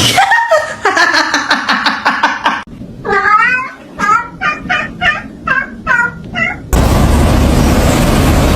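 A domestic cat meowing: one long drawn-out call, then a quick series of about seven short meows. About two-thirds of the way through it cuts off abruptly to a steady loud noise.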